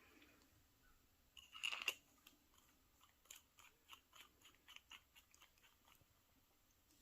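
Faint scratching and tapping of a fountain pen being worked on paper: one louder scrape about one and a half seconds in, then a run of quick, light scratchy strokes for about three seconds.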